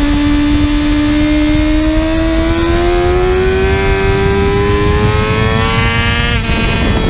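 2020 Kawasaki ZX-6R's inline-four engine pulling hard under acceleration, its pitch rising steadily, then dropping sharply near the end as it upshifts and pulls again. Heavy wind rush underneath.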